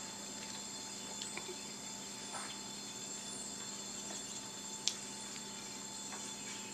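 Quiet steady background hum with a faint high whine, broken by a few faint ticks and one short sharp click about five seconds in.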